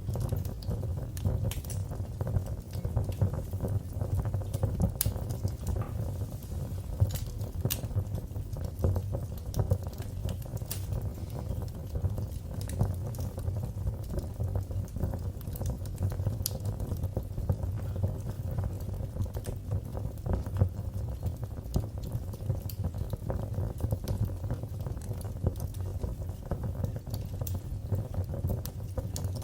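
Wood fire in a fireplace crackling: a steady low rumble of burning with frequent, irregular sharp pops and snaps.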